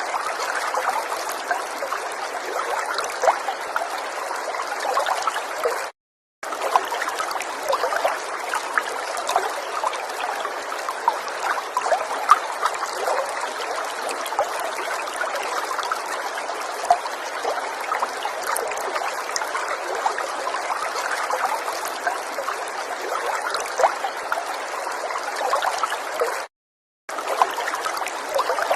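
River water running and trickling: a steady rush with many small splashes. It cuts out to silence twice, for about half a second each, about six seconds in and near the end.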